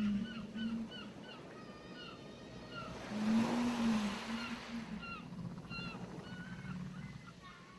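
Seagulls calling over and over in short hooked cries, with a wave surging in and washing up about three seconds in. Twice a low, drawn-out arching tone sounds under them: once at the start and once with the wave.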